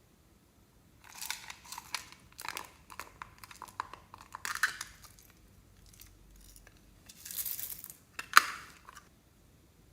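Crinkling and rustling of plastic piping bags being handled, in two spells with crisp clicks, and a sharp snap near the end that is the loudest sound.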